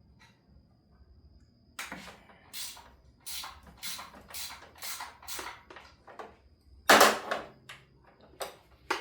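Wrenches working on engine accessory bolts: a run of sharp metallic clicks about two a second, then a louder metal clank about seven seconds in and two more clinks near the end.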